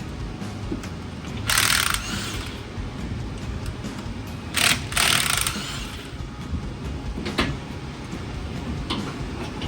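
Cordless electric impact wrench run in short bursts of rapid hammering, a few seconds apart, as bolts are loosened.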